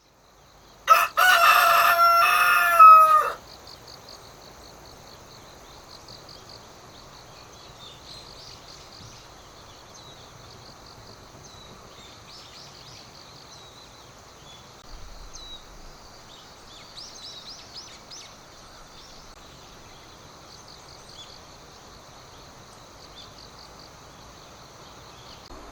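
A rooster crows once, loudly, about a second in, its call dropping in pitch at the end. Afterwards there is only faint high chirping over a quiet steady background.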